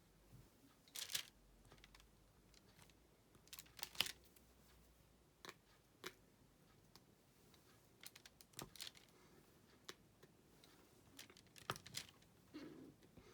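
Faint, scattered clicks and crinkly taps of diamond-painting drills being picked from the tray with a drill pen and pressed onto the canvas, about a dozen in a few seconds.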